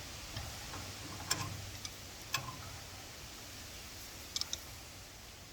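Faint, scattered metallic clicks and taps of a hand wrench against threaded steel pipe fittings being handled, a few irregular ticks with a quick double click a little after four seconds.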